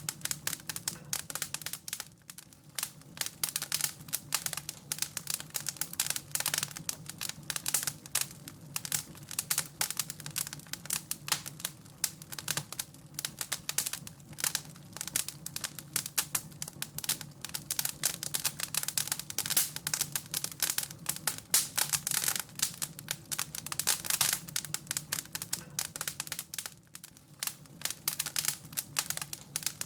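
Wood fire crackling in a fireplace: dense, irregular pops and snaps over a steady low hum.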